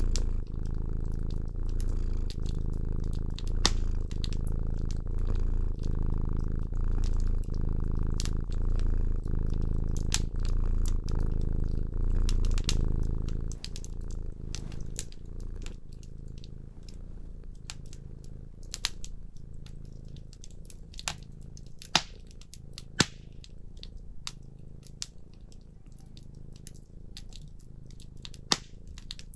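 A cat purring close up, pulsing in a steady rhythm of in-and-out breaths, with a wood fire crackling and popping throughout. About halfway through the purring drops much quieter, leaving the fire's sharp pops to stand out.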